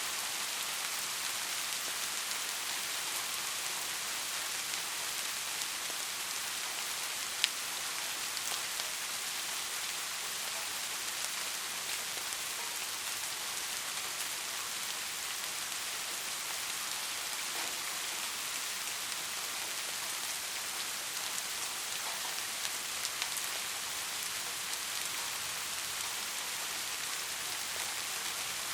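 Steady rain falling, an even hiss of many drops, with one sharp tick about seven seconds in.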